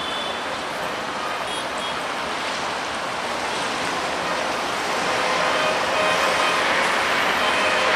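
Metre-gauge passenger train rolling along the track: a steady rushing rumble that grows louder in the second half.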